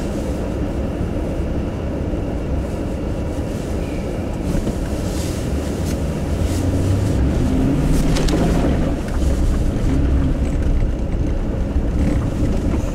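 Car driving along a snow-covered road: a steady low rumble of engine and tyres, a little louder from about halfway.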